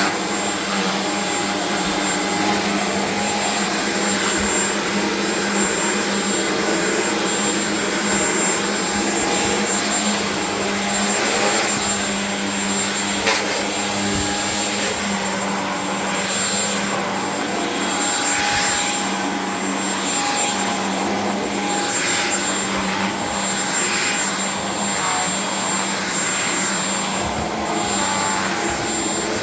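Vacuum cleaner running over a rug: steady motor noise with a constant hum and a high whine, the rushing sound swelling and easing now and then in the second half.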